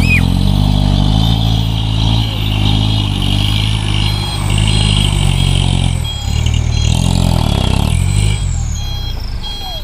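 Truck engine running hard under load, its revs dipping and climbing again about six to eight seconds in, with a high whine that falls in pitch near the end.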